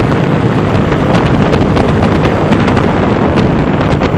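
Heavy wind noise on the microphone of a motorcycle riding at road speed, with engine and road noise underneath and a few short clicks of wind buffeting.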